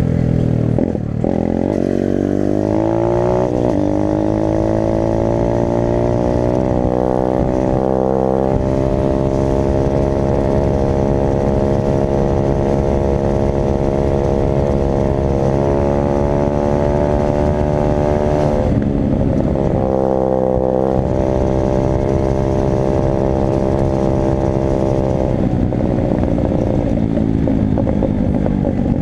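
Dirt bike engine under hard throttle. The revs climb steeply over the first few seconds and then hold high and steady. They dip briefly about two-thirds of the way through before picking up again, and ease off slightly near the end.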